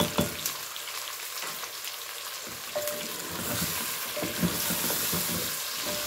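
Chicken legs sizzling in oil in an aluminium pot while a wooden spoon scrapes and knocks against the pot, stirring in freshly added ground spices. A few knocks at the start; the sizzle grows louder about halfway through.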